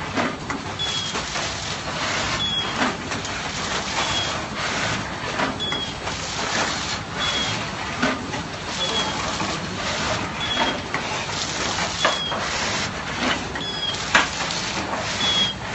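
Snack-bag packaging machine running through its repeating cycle, a short high chirp sounding about every one and a half seconds over steady mechanical clatter and hiss.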